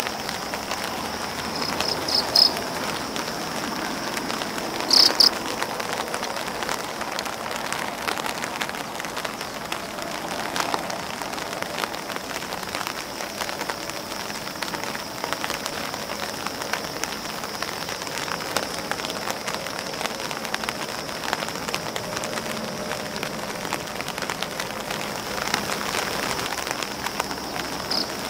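Rain falling steadily on an umbrella and on grass leaves, a dense patter of drops. Under it runs a steady high-pitched trill, with brief louder high chirps about two and five seconds in and again near the end.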